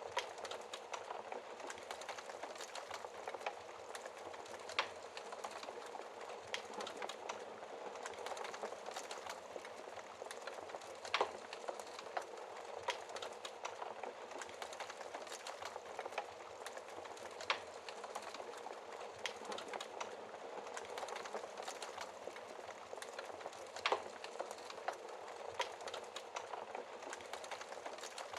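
Wood fire in a fireplace crackling steadily, with a dense bed of small snaps and a sharper, louder pop about every six seconds.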